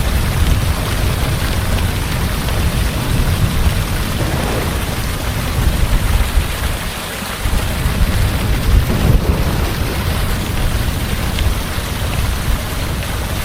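Heavy rain falling steadily, with a low rolling rumble of thunder that swells and fades underneath it.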